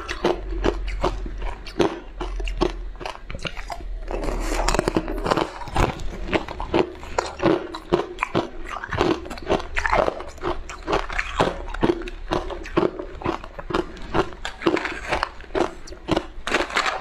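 A person biting into and chewing crunchy food close to the microphone, with quick, crisp crunches several times a second.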